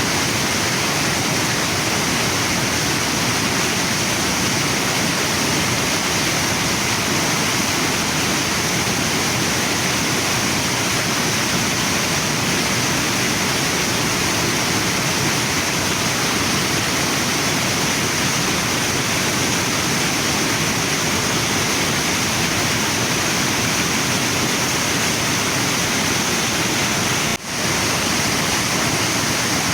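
Waterfall and river water rushing steadily, with one momentary dip in level near the end.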